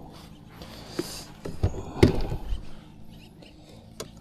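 A few dull knocks and thumps of handling on a plastic fishing kayak while a just-landed small bass is dealt with, the loudest about two seconds in, then a sharp click near the end.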